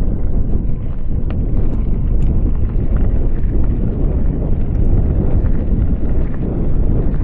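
Strong wind buffeting the microphone on a moving bicycle: a loud, steady rumble with a few faint clicks through it.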